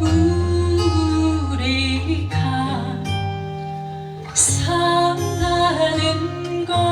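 Live poem-song performance: a slow melody sung over acoustic guitar accompaniment, with held, wavering notes.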